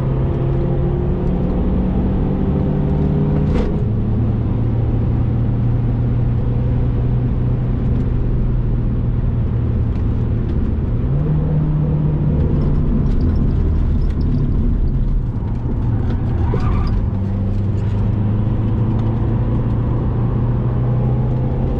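Saab diesel engine running hard on track, its note holding steady and then stepping in pitch at gear changes: down about three seconds in, up about eleven seconds in, and down again near the end.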